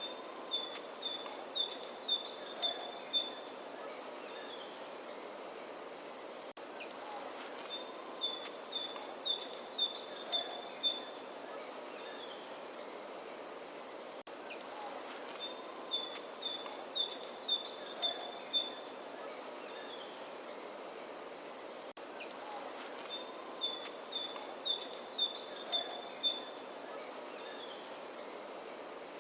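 A songbird singing the same phrase about every eight seconds, four times over. Each phrase is a couple of high, falling notes followed by a quick run of notes that alternate between two pitches for about three seconds. A faint steady outdoor hiss lies underneath.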